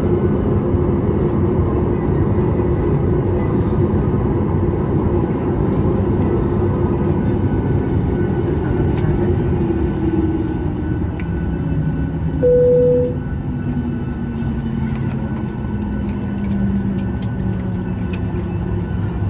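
Boeing 737 MAX 8 cabin noise while taxiing: a steady low rumble of engines and air. About twelve seconds in, a single short electronic chime tone sounds, the loudest moment.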